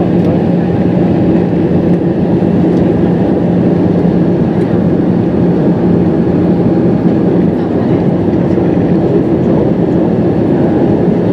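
Steady cabin drone of an Airbus A320 airliner in descent: engine and airflow noise with a constant low hum.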